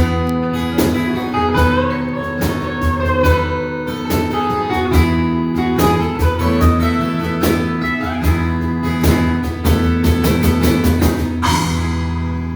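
Instrumental interlude of a live folk-pop song: guitars strumming in a steady rhythm under held bass notes, with a melody line played over them.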